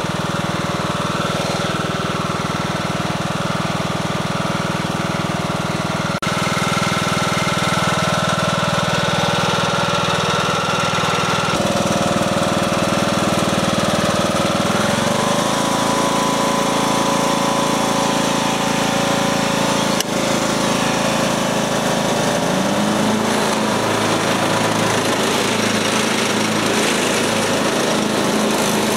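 Craftsman lawn mower engine running steadily under load while mowing, its note shifting a couple of times partway through.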